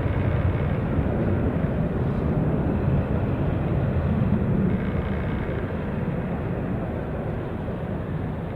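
Steady low rumble of jet aircraft engines, easing off somewhat over the second half.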